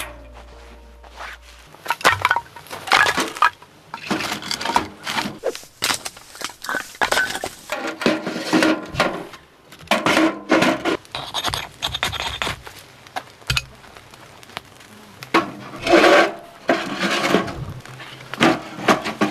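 Firewood being handled and loaded into a wood-burning stove: irregular wooden knocks and cracks mixed with metallic clinks from the stove, in bunches of sharp strokes.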